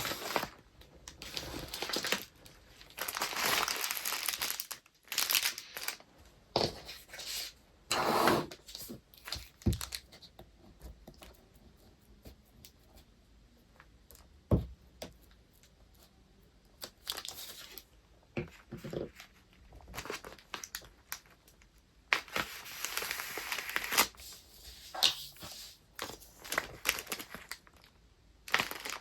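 Paper wrapping and packaging being handled by hand, crinkling and rustling in bursts. There is a quieter stretch in the middle with one sharp click, and the rustling picks up again near the end.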